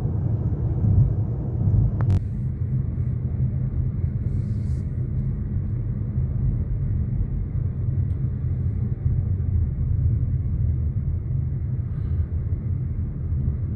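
Steady low rumble of a car driving along the road, engine and tyre noise heard from inside the cabin, with a single sharp click about two seconds in.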